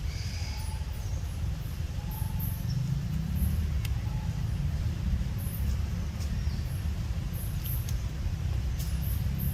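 Steady low rumble with scattered faint high chirps and clicks on top.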